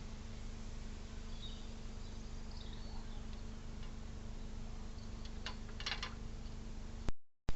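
Faint, short, high bird chirps over a steady electrical hum, with a few sharp clicks a little before the end; the sound cuts out completely for a moment near the end.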